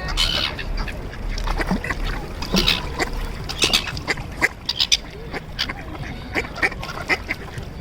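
Ducks quacking, many short calls coming one after another and overlapping.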